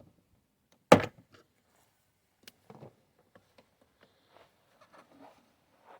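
A screwdriver working behind a pickup truck's plastic door trim panel: one sharp, loud knock about a second in, then scattered light clicks and scraping.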